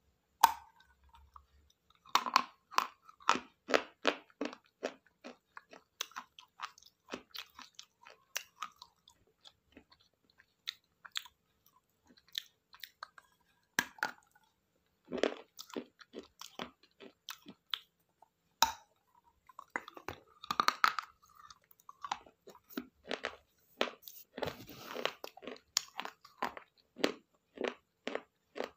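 Pieces of a broken clay pot (matka) being bitten and chewed close to the microphone: runs of sharp, dry crunches in clusters, with short pauses between them.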